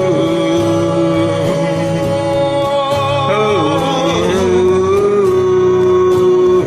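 A singer holding long "ooh" notes, moving between a few pitches, over the backing music of the song.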